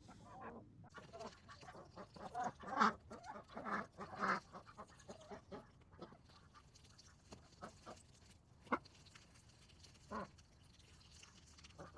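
Domestic ducks quacking: a run of short quacks a few seconds in, then two single quacks near the end.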